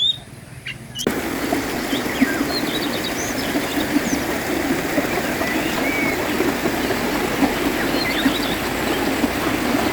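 Steady rush of a flowing river, starting abruptly about a second in, with birds chirping over it.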